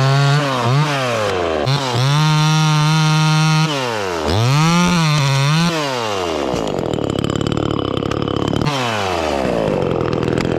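Gas chainsaw cutting wood to take off a nib: the engine note dips and recovers several times as the chain bites, runs rougher under load for a few seconds, then winds down near the end.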